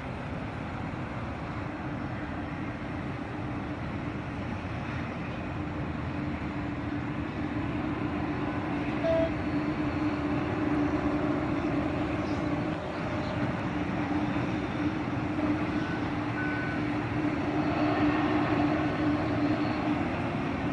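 Steady mechanical rumble of a large engine or vehicle with a low held drone, growing louder about a third of the way in and staying up until near the end.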